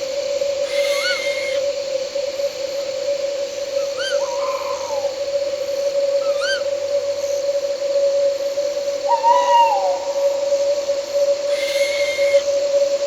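Owls calling in the night: about five short calls a few seconds apart, several of them falling in pitch. Underneath runs a steady drone of night insects.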